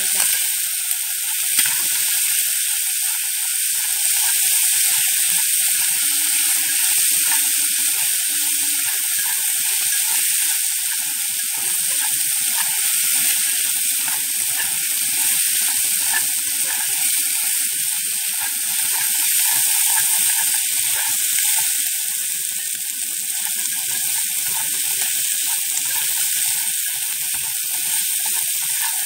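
Duck tongues sizzling in a hot pan as they are stirred, a steady hiss with continuous fine crackling.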